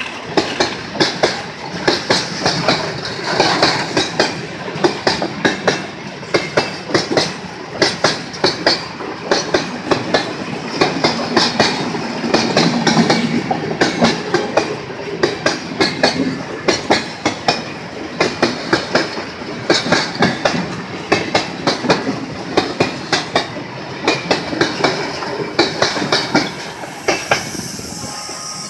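A freight train of oil tank cars rolling past close by, its steel wheels clacking over the rail joints in repeated groups of sharp clicks over a steady rumble. The clatter thins out near the end as the last car goes by.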